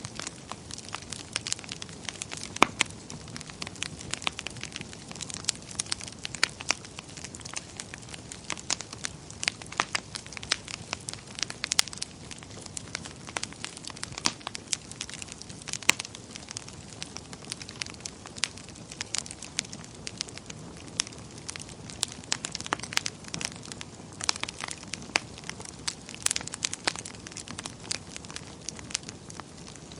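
Wood fire burning in a fireplace, with a steady low rush and frequent irregular sharp crackles and pops from the burning logs.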